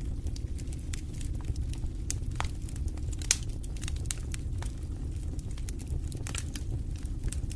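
Wood fire crackling in a fireplace: irregular sharp pops and snaps over a steady low rumble of the flames, with one louder pop about three seconds in.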